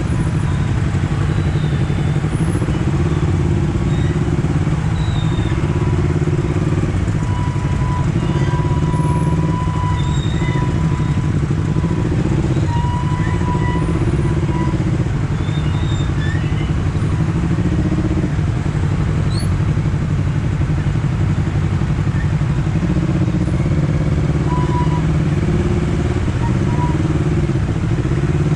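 Honda CBR250RR sport bike being ridden at a fairly steady pace, its engine running with a continuous note that rises and falls slightly, over wind and road noise.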